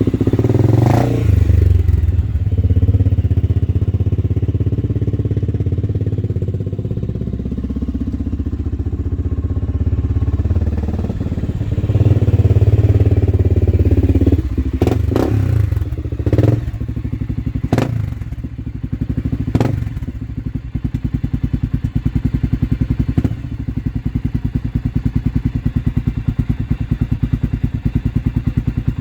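Honda TRX400EX ATV's single-cylinder four-stroke engine running through a Motoworks aftermarket exhaust. It revs up about a second in and again for a couple of seconds in the middle, then gives several sharp throttle blips before settling into a steady, even idle.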